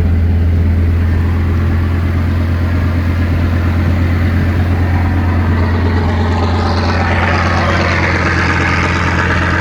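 A boat's engine runs steadily with a deep, even hum as the boat pushes in through shallow, muddy water. About seven seconds in, a louder hiss joins it.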